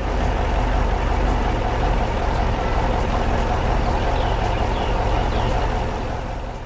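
Heavy construction-vehicle engine running steadily with a deep rumble, a cartoon engine sound effect. It starts abruptly and cuts off suddenly right at the end.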